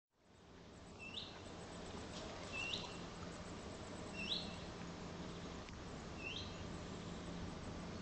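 A small bird calling four times, each a short rising note, about one and a half to two seconds apart, over steady background noise with a faint low hum.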